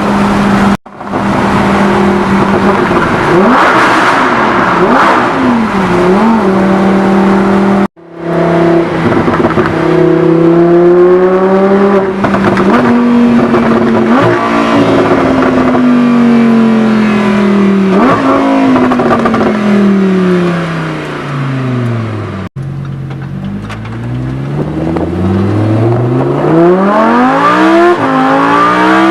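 Lamborghini Huracan's V10 engine through a Fabspeed Supersport aftermarket exhaust, revving up and down through the gears. Its pitch climbs and drops repeatedly, falls in one long sweep in the second half, then climbs again near the end, with abrupt cuts about a second in, about eight seconds in, and after about twenty-two seconds.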